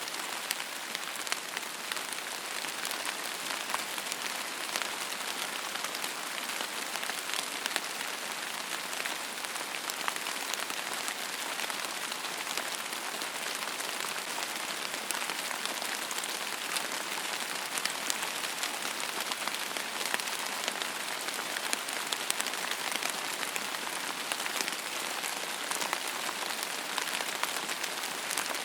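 Steady rain falling on a hard surface, a dense even hiss with many fine, close-spaced drop patters.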